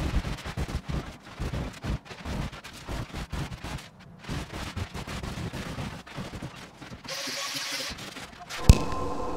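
Rapid, irregular knocking and crumbling of a wall being broken up during demolition. Near the end there is a short hiss, then a sharp click, and music begins.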